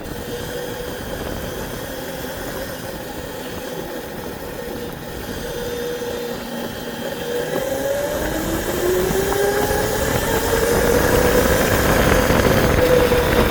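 Motorcycle engine running steadily, then rising in pitch as it speeds up from about eight seconds in. Wind noise grows louder along with it.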